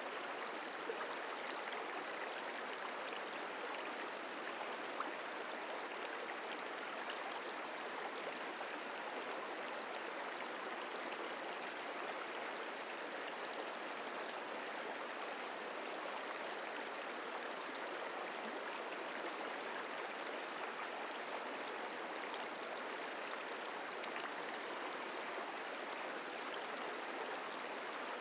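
Merced River flowing: a steady rush of water, with one faint tick about five seconds in.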